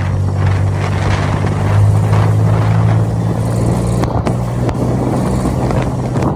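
Motorcycle engine running at a steady cruising speed, with wind and road noise rushing over the rider's microphone.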